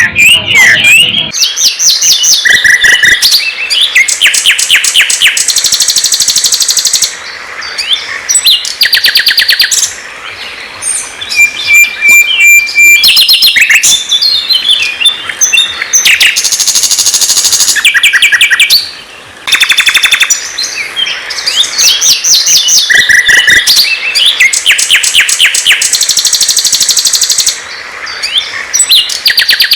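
A songbird singing loudly in long, varied phrases: fast rattling trills and chatters alternate with clear whistled notes, with brief pauses between phrases.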